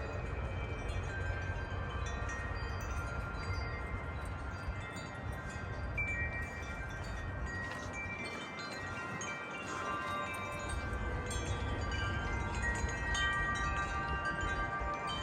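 Several wind chimes ringing in the wind, many overlapping notes sounding and fading, with a low wind rumble on the microphone that eases about eight to ten seconds in.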